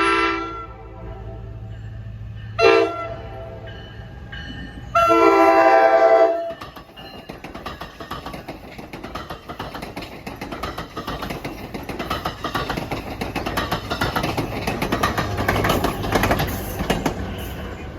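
Train horn sounding: a chord ends just after the start, then a short blast, then a longer loud blast, the close of a grade-crossing signal. After that comes the rumble of a train passing, with wheels clicking over the rail joints.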